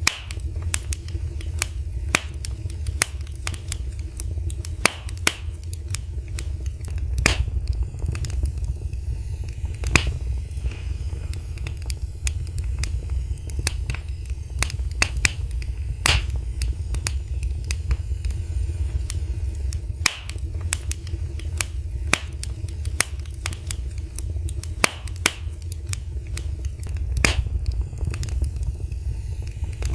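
Wood fire burning in a fireplace, crackling and popping in irregular sharp snaps, a few louder pops standing out, over a steady low rumble.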